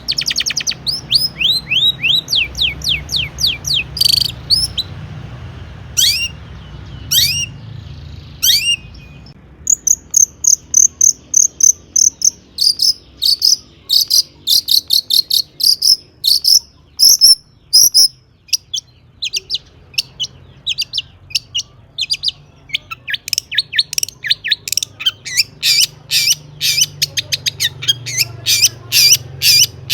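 Long-tailed shrike singing a loud, varied song packed with mimicked calls. It opens with a run of quick falling whistles, gives a few separate notes, then goes into long rapid series of sharp high notes.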